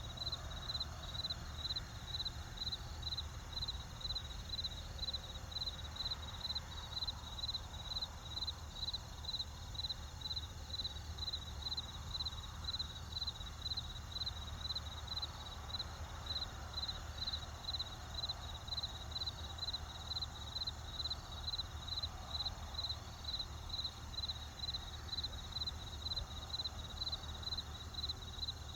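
Crickets chirping in a steady, even rhythm of about two high chirps a second, over a low steady rumble.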